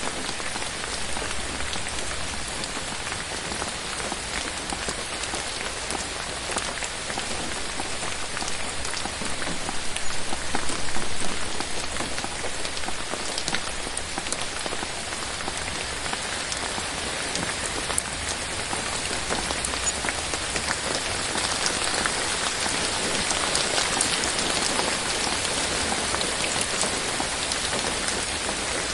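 Steady rain falling on forest foliage, a dense patter of drops on leaves, swelling briefly about ten seconds in.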